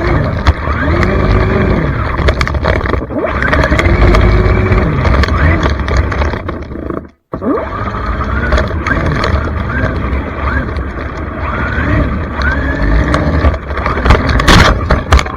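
Traxxas Mini XRT RC monster truck's electric motor whining up and down in pitch as the throttle is worked, over a heavy low rumble. The sound cuts out briefly about seven seconds in.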